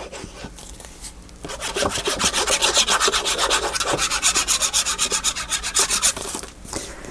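Quick back-and-forth rubbing strokes on paper, about five a second, starting about a second and a half in and stopping near the end.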